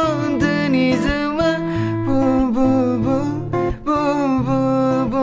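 A voice singing long held notes of a French song over strummed acoustic guitar.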